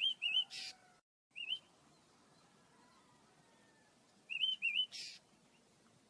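Pet birds chirping: two quick chirps and a short harsh burst at the start, a single chirp a little later, then the same two chirps and harsh burst again near the end.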